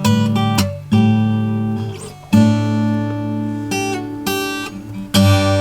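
Acoustic guitar played by hand: chords strummed about four times, each left ringing and fading, with single picked notes in between.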